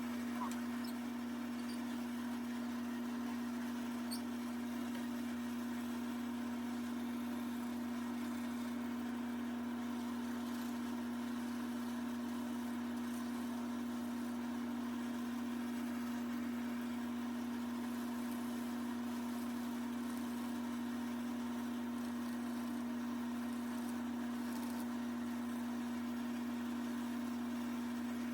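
Wood lathe motor running at a steady speed, giving an unchanging hum with no cutting heard.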